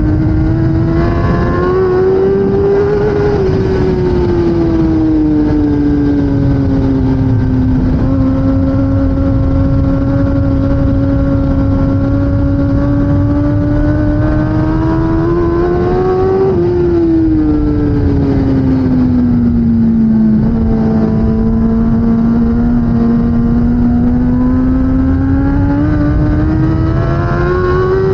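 2016 Kawasaki ZX10R's inline-four engine under racing load, its revs rising and falling slowly over a steady rush of noise. The pitch drops suddenly once about two-thirds of the way through, then falls and climbs again near the end.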